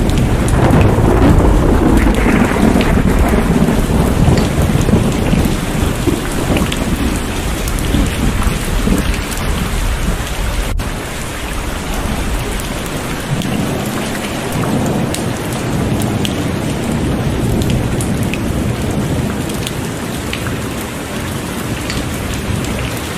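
Heavy rain pouring steadily with scattered sharp drop hits, and a long roll of thunder rumbling in the first few seconds that slowly fades away.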